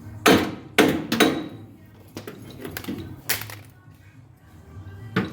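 Sharp metal clanks and knocks from tools on the truck's front suspension. Three come close together in the first second and a half, then one more after about three seconds and another near the end, each ringing briefly.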